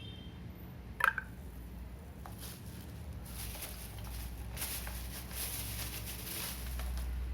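A single clink about a second in. Then a crackling fizz of many tiny pops builds for a few seconds and fades near the end: dry clay chunks releasing air bubbles as they soak in water.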